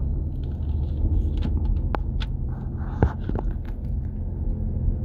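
A 2014 Nissan Patrol Y62 on the move, with a steady low hum from its rear right wheel hub bearing under the road and drive noise: the hum of a worn hub bearing. A few short clicks come near the middle.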